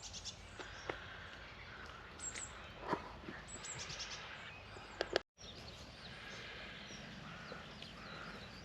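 Small birds chirping and singing faintly in short scattered calls over a steady low outdoor hiss, with a few light clicks.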